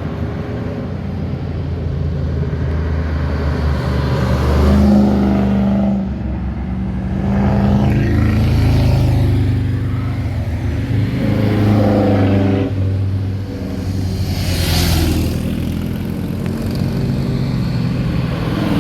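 Several cars passing one after another, their engines revving up and easing off, each exhaust note swelling as it goes by and then fading.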